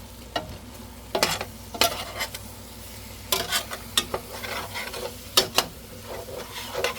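A utensil stirring vegetables in a cooking pot, with a series of sharp clinks and scrapes against the pot over a low, steady sizzle.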